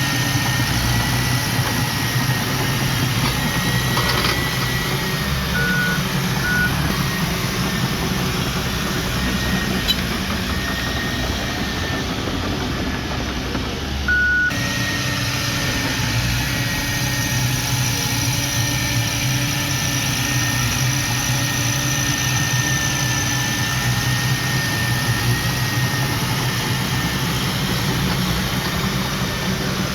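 Diesel engine of heavy earthmoving machinery, a bulldozer or dump truck, running steadily, with a thin high whine above it. A few short beeps sound about six seconds in and again near the middle.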